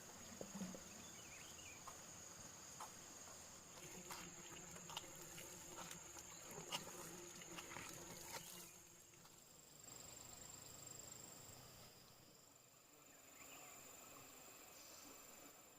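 Faint, steady high-pitched drone of insects, with scattered light clicks and taps in the first half.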